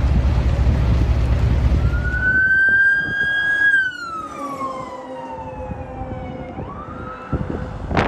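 Emergency vehicle siren wailing: its pitch climbs, holds, then falls slowly over about three seconds and starts to climb again near the end. For the first few seconds a loud rushing noise covers it, then drops away.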